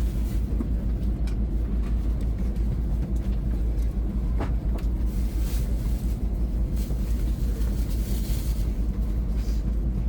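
Steady low rumble of a Shinkansen bullet train, heard from inside the passenger cabin.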